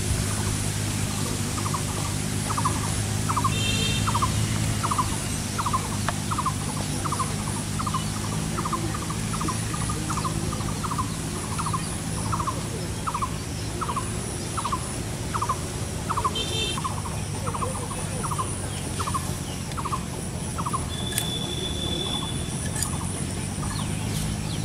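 A bird calling one short note over and over, about twice a second, stopping about 20 seconds in, over a steady low hum.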